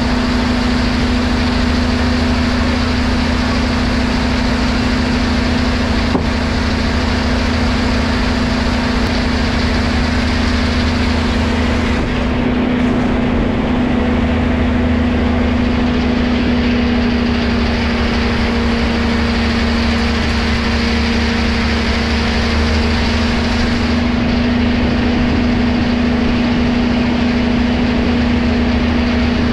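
Engine-driven sawmill machinery running steadily: a constant low mechanical hum with no breaks.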